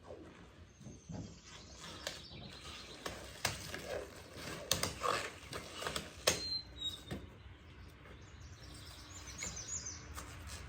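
Plasti Dip rubber coating being peeled off a truck's paint by hand, giving irregular crackling and tearing sounds, busiest in the middle. A few short high bird chirps come near the end.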